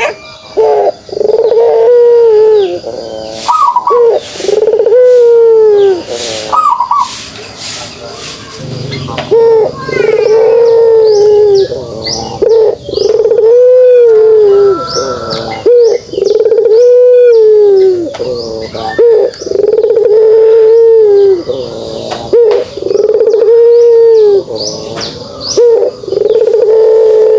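Puter pelung, a domestic Barbary dove of a long-cooing line, giving its rolling 'kugeruk' coo again and again, about a dozen arched coos of about a second each. Small birds chirp high in the background between the coos.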